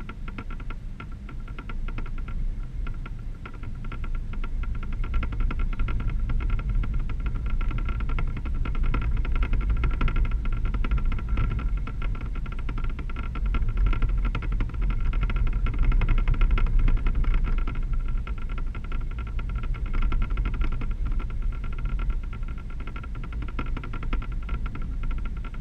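A 1988 K1500 pickup driving: a steady low rumble from engine and tyres, with a steady high whine over it, growing louder through the middle and easing again.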